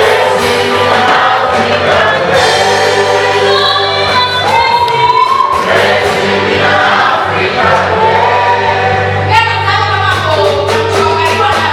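A choir singing a gospel song in harmony with band accompaniment and a steady bass line.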